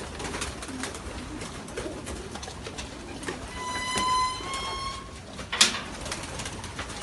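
A flock of racing pigeons cooing, with many small scattered clicks and flaps. Midway there is a two-part whistling tone lasting about a second and a half, and a sharp clap a little after it is the loudest sound.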